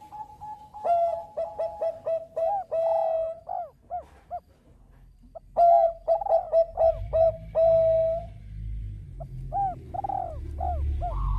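Zebra dove (Bangkok perkutut) cooing: three phrases of quick, short rising-and-falling notes, the first about a second in, the next two with short breaks between. A low rumble comes in under the calls in the second half.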